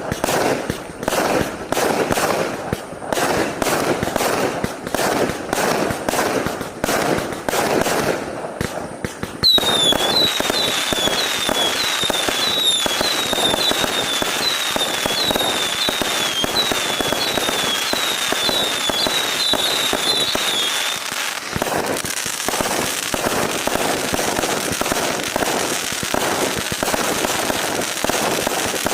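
A 1200-shot, 0.6-inch fireworks cake firing in rapid succession, shots and crackling piling over one another. About ten seconds in, short falling whistles join, about two a second, stopping about halfway through, after which the dense popping goes on.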